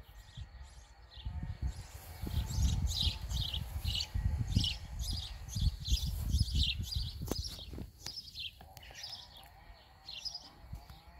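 A bird chirping over and over, about two short chirps a second, stopping near the end. Under it runs a low rumble on the microphone.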